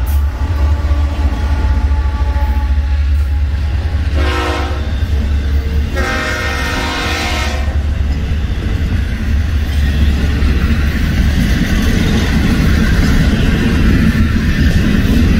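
Florida East Coast Railway freight train rolling past close by with a heavy, steady low rumble from its locomotives and container cars. Its multi-chime air horn sounds twice, a short blast about four seconds in and a longer one about six seconds in. Near the end the rattle of the cars' wheels on the rails grows louder.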